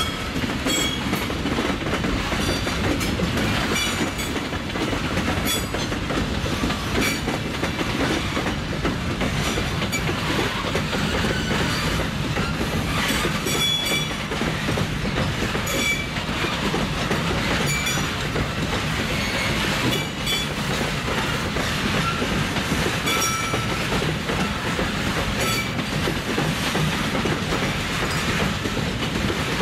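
A freight train of boxcars rolling past close by: steel wheels clicking rhythmically over the rail joints over a steady rumble, with brief high wheel squeals now and then.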